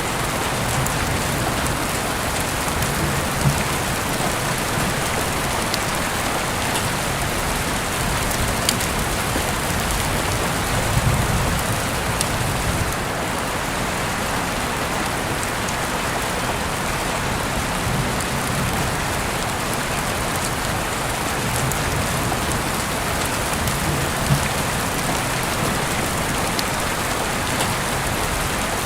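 Steady rain falling on a surface, with a few sharp crackles now and then and soft low swells underneath.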